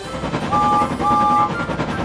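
Steam engine whistle blowing two short two-note blasts about half a second apart, over a fast, continuous rattling chug of a train running at speed.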